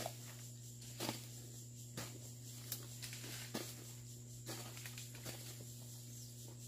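Hoe chopping into soil and weeds, dull strokes about once a second that thin out near the end.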